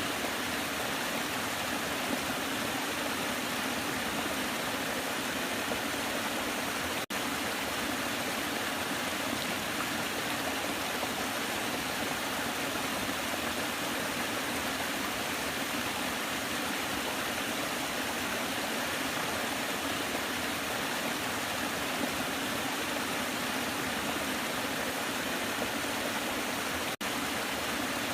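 Waterfall rushing steadily, an even wash of falling water with no change in level; the sound drops out for an instant twice.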